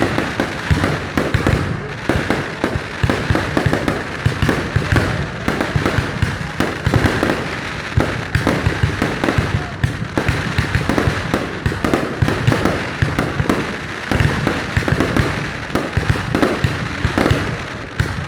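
Fireworks display: a continuous barrage of aerial shell bursts, many bangs a second overlapping into a steady crackling din, with no pause.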